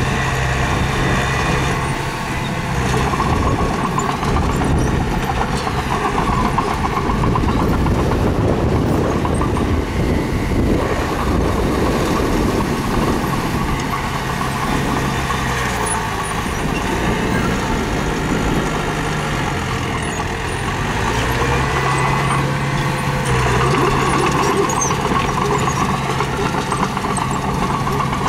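Diesel engine of a mini bulldozer running steadily under working load, its pitch and level shifting up and down several times as it pushes stone.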